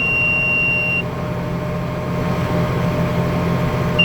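Planter monitor alarm in a tractor cab: a steady high tone warning that the planter is not planting. It cuts off about a second in, when a row sensor detects a bean dropping, and starts again near the end, over the steady drone of the tractor's engine.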